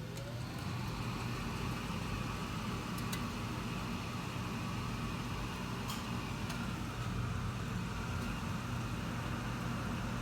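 Furnace starting up: a motor hum whose pitch rises and settles into a steady drone within the first second, with a couple of faint ticks later on.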